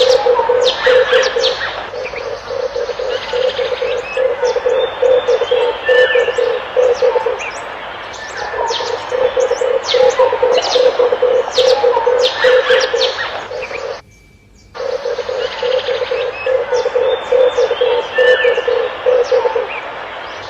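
Red turtle dove cooing in long runs of rapid low pulses, each run several seconds long with short pauses between, while small birds chirp quickly above it. All the sound drops out for a moment about two-thirds of the way through.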